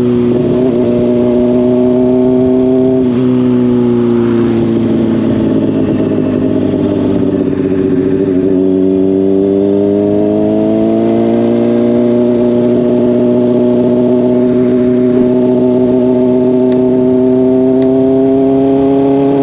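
Honda CBR600RR inline-four with a slip-on exhaust running on the move, heard from a helmet chin mount: the engine note holds steady, dips twice as the revs ease off, then climbs back and holds again.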